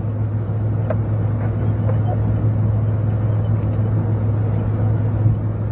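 Steady low hum of a stationary patrol car running, heard from inside the car, with a couple of faint clicks about one and two seconds in.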